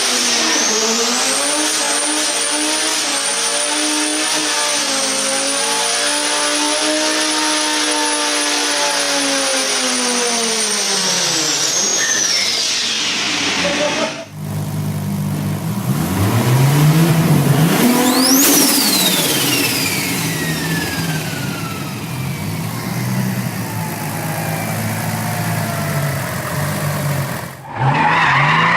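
Turbocharged car engines revving, heard in two back-to-back clips. In the first, a steady high turbo whistle sits over the engine and falls away about twelve seconds in. After a short break the second engine runs with a whine that rises sharply and then sweeps down about midway.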